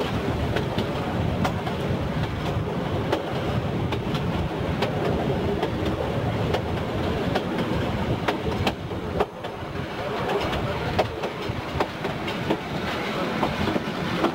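Metre-gauge steam train running along the track, heard from inside the front coach: a steady rumble with many sharp, irregular clicks as the wheels pass over rail joints and points.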